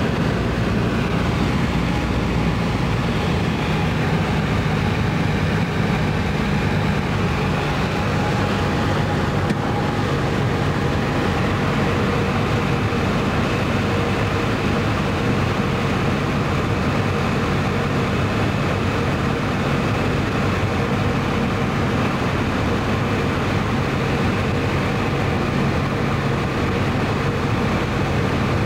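Light aircraft's piston engine running steadily, a constant drone heard from inside the cabin.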